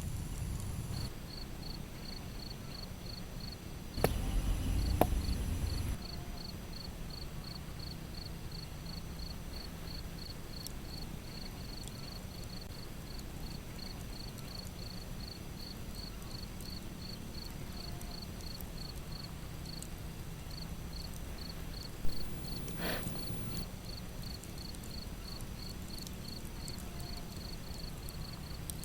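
Cricket chirping steadily, a short high chirp repeated about three to four times a second with a couple of brief pauses. A louder knock with a clatter lasting about two seconds comes about four seconds in, and a single sharp knock about twenty-two seconds in.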